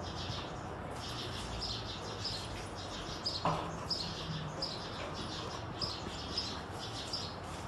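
Small birds chirping: short, high calls repeating about twice a second over a steady low background noise.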